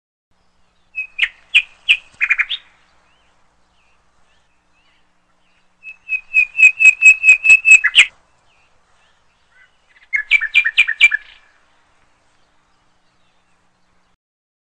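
A bird chirping in three short bursts of quick, repeated high notes, with pauses of a few seconds between them.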